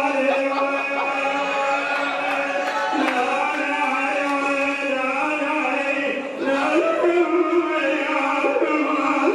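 A male munshid chanting a Shia devotional elegy in long, drawn-out notes that shift in pitch twice.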